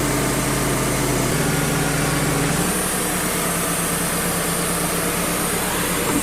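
Wood-Mizer LT35 hydraulic portable sawmill running steadily, its band blade sawing a board off a knotty white pine log. The engine note shifts slightly about two and a half seconds in.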